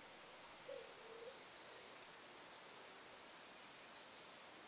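Near silence: faint outdoor hiss, with one soft, low two-part bird call about a second in and a brief high chirp just after it.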